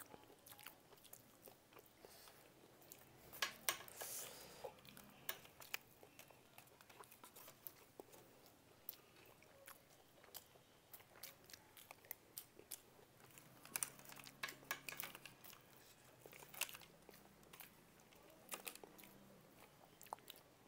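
Close-up eating sounds of people chewing and biting into burgers and momos: quiet, wet chewing with soft crunches and small clicks, bunching up a few seconds in and again past the middle.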